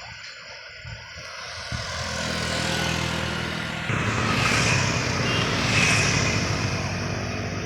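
Loaded truck's engine labouring up a climb and drawing near, building steadily, jumping louder about four seconds in and peaking with a hiss before easing slightly near the end.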